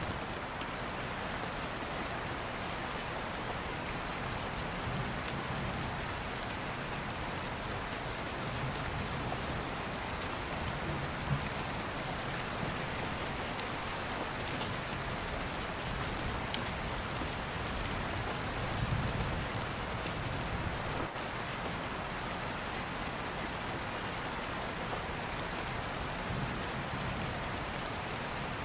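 Steady rain falling on a roof, an even hiss, with soft low rumbles of distant thunder swelling every several seconds and a few faint sharp clicks.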